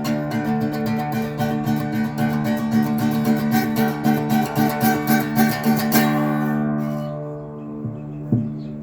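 Acoustic guitar strummed quickly and steadily. The strumming stops about six seconds in and the last chord is left ringing and slowly fading.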